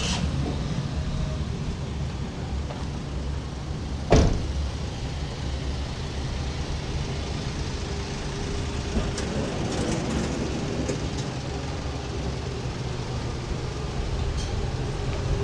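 Street ambience with a motor vehicle's engine running steadily as a low hum, and one sharp knock about four seconds in.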